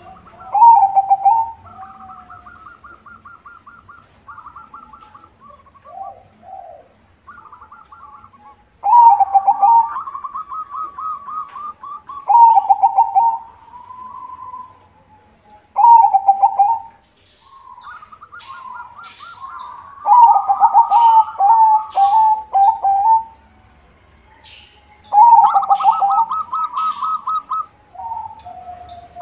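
White zebra dove (perkutut) singing its rhythmic cooing song, about six loud phrases of quick pulsed notes a few seconds apart. Fainter cooing phrases fill the gaps between them, and short high chirps come in during the second half.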